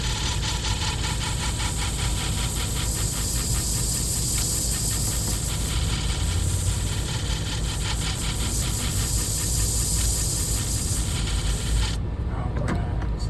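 Shear blade held against a motor-driven 2,000-grit sharpening disc: a steady hiss of steel on the spinning abrasive over the motor's low hum, with a fine rapid pulsing through the middle. About twelve seconds in the hiss cuts off suddenly while the low hum goes on, followed by a couple of light clicks.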